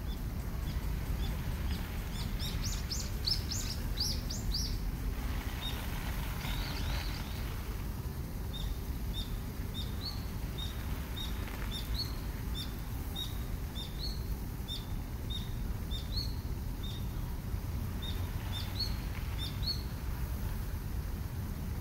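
Birds singing over a steady low rumble of background noise. A few seconds in comes a burst of quick, falling notes, followed by one short chirp repeated about once or twice a second.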